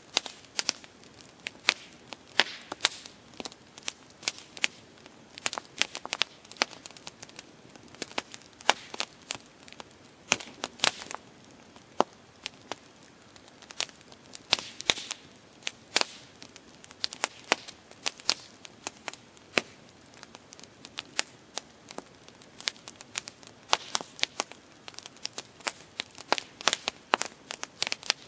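Campfire crackling: wood snapping and popping in quick, irregular pops over a soft hiss of burning.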